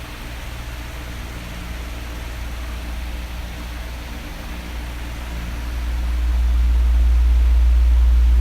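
Electric fan running: a steady whoosh of moving air over a low rumble, which swells noticeably louder from about halfway through.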